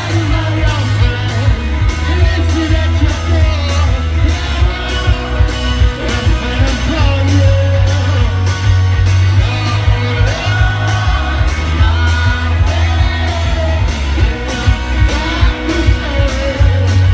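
Rock band playing live with a singer, heavy bass and steady drum beat, as heard from the crowd through a phone's microphone.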